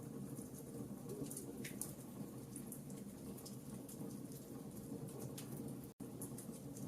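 Wood campfire crackling: irregular sharp pops and snaps over a steady low rush of burning flames. The sound cuts out for an instant near the end.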